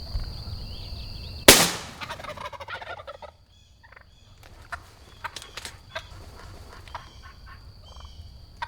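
A single shotgun shot at a wild turkey about a second and a half in, its blast echoing away over the next second or so, followed by faint scattered clicks and rustles.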